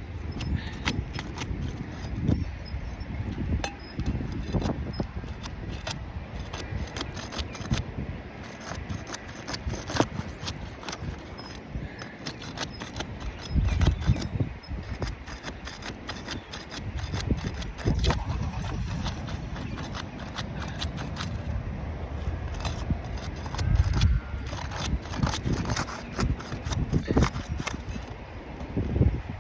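Roof shingle being pried and worked loose where its sealant glue still holds: repeated scraping and clicking, with a few heavier low thumps.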